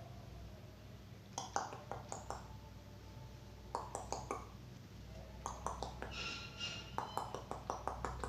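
A pet parrot's faint, quick clicks and light taps in several short bursts, with a few soft high chirps about six seconds in.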